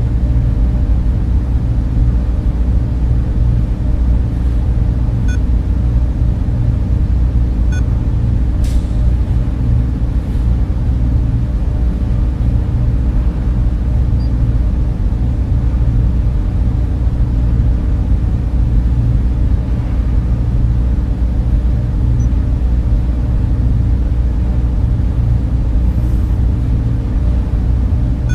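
Server room cooling fans and machines running steadily: a continuous whir of air over a heavy, unchanging low hum.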